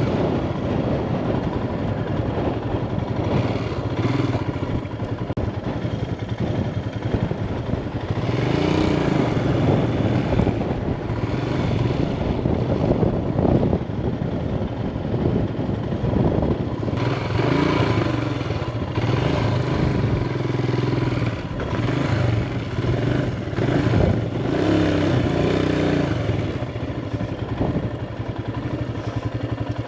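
Motorbike engine running at low speed while the bike is manoeuvred and turned around, its revs rising and falling several times.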